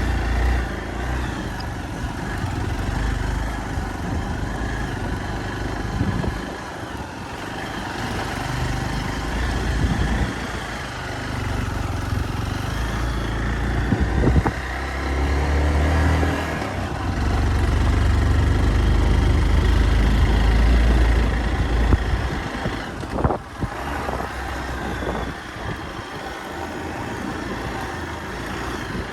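Hero Xpulse 200 motorcycle's single-cylinder engine running as it is ridden over a rough off-road track, its note rising and falling with the throttle, louder for a few seconds in the second half.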